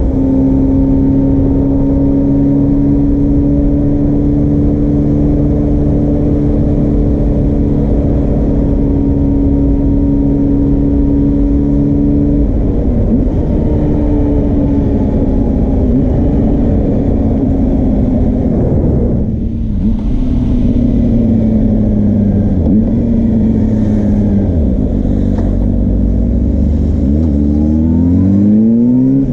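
Suzuki GSR400 inline-four engine running through a Yoshimura Cyclone Tri-Oval exhaust. It holds a steady note for the first twelve seconds or so, then the engine speed slowly sinks with a brief dip about two-thirds of the way in. Near the end it revs up again in quick rising sweeps.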